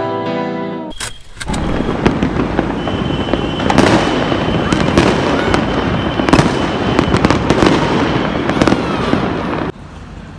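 Fireworks going off in a dense volley of crackles and bangs, with a thin steady whistle through the middle. The volley cuts off abruptly near the end.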